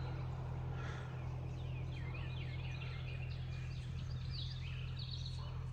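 Songbirds singing, a dense run of short quick chirps and trills with an eastern towhee among them, over a steady low hum.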